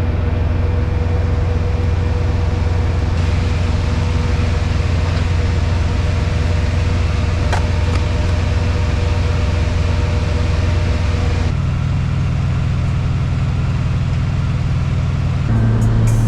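Semi-truck diesel engine idling steadily with a low hum. The hum's pitch pattern changes abruptly about eleven seconds in.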